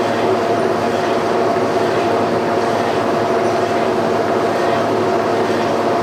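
Line-boring rig running, its boring bar turning and cutting steel as it back-bores a worn pin hole with the bar supported by a bushing to hold down chatter. A steady, unbroken whine over a continuous machining hum.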